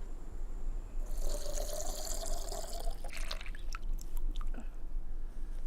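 Liquid pouring out for about two seconds, followed by a few short clicks and knocks.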